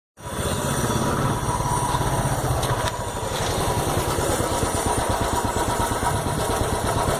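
Royal Enfield single-cylinder four-stroke engine running steadily at low revs, its exhaust giving the even, rapid thump of a single.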